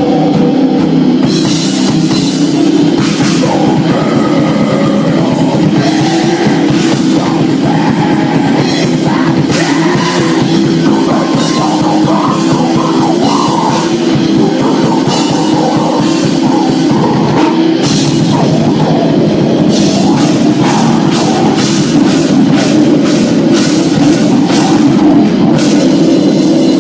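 Live heavy rock band playing an instrumental passage: electric guitars and bass over a drum kit, with frequent cymbal and drum hits.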